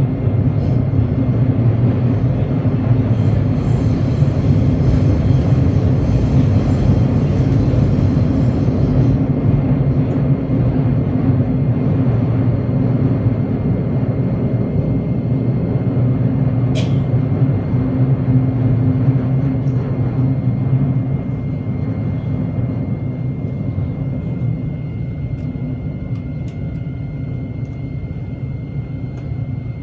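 Cabin noise of a Class 700 Thameslink electric train running through a tunnel: a steady loud rumble with a faint thin high whine. There is one brief sharp high squeak about seventeen seconds in. The rumble eases off over the last third.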